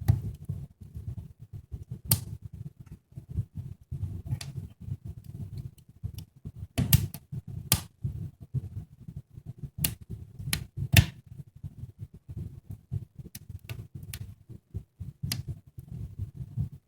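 Wood fire crackling in a brick fireplace: irregular sharp snaps and pops over a low, fluttering rumble of flames.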